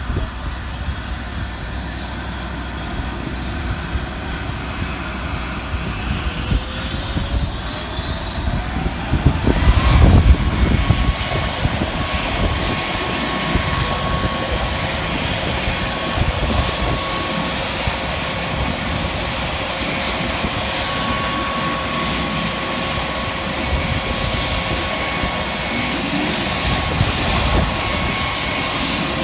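Panavia Tornado GR4's Turbo-Union RB199 jet engine starting up: a whine climbs steeply in pitch for several seconds, a loud rumbling surge comes about ten seconds in, and the engine then settles into a steady high whine over its running roar.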